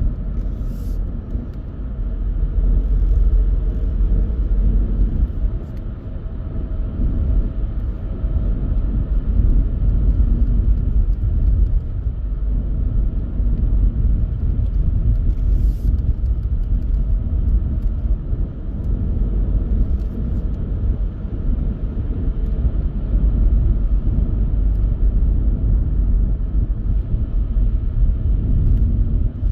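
A car driving at a steady pace, with a continuous low rumble of engine and tyres on the road and a few faint light clicks.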